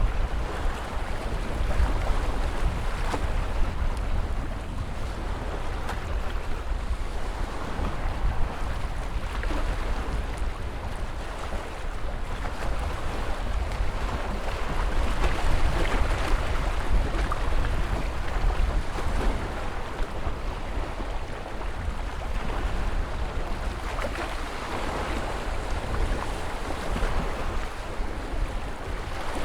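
Ocean surf: waves washing and breaking continuously over a deep, low rumble, swelling slightly louder about halfway through and again near the end.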